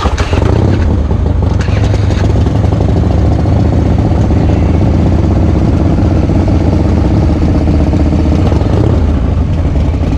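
Motorcycle engine running steadily and loudly, close by.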